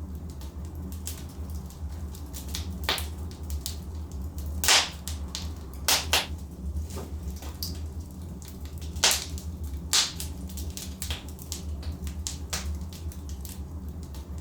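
Logs burning in a fireplace, crackling with irregular sharp pops over a steady low rumble. The loudest pops come about halfway through and again about two-thirds of the way in.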